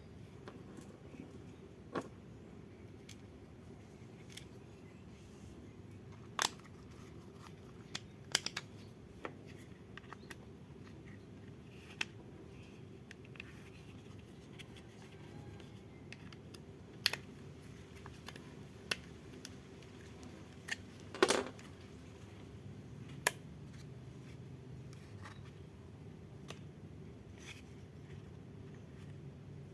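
Small hard toy parts being handled, with scattered light clicks and taps a few seconds apart and a brief rattle about two-thirds of the way in, over a faint steady hum.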